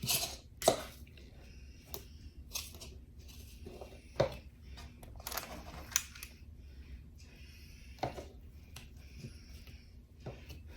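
A spring-loaded cookie scoop clicking and scraping as it scoops and releases portions of minced garlic. There are scattered short clicks about every second or so, with softer scraping between them.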